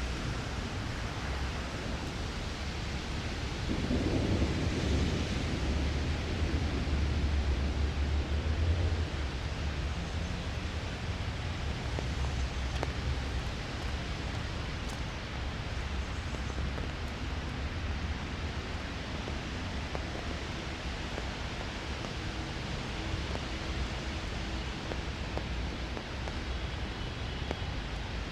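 Steady rain falling, with a deep roll of thunder that breaks about four seconds in and rumbles on for about five seconds before fading back into the rain.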